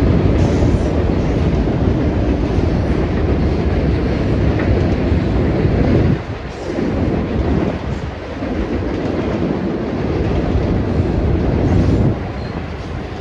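Freight train rolling past close by: a loud, steady rumble of wheels on the rails, briefly dipping in loudness a few times.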